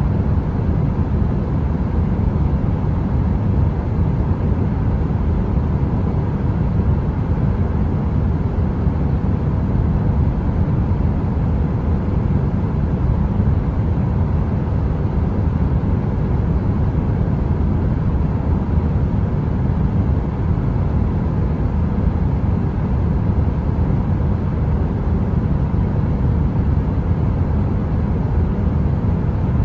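Steady, deep heater noise: an even low rumble like brown noise with a faint hum in it, unchanging throughout with no crackles.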